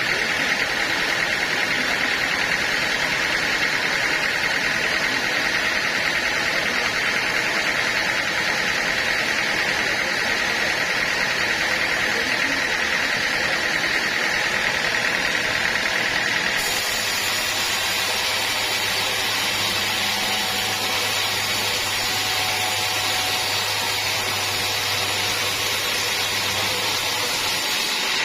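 Sawmill machinery running steadily through teak logs. The sound changes abruptly about two-thirds of the way in, turning brighter with a low hum underneath.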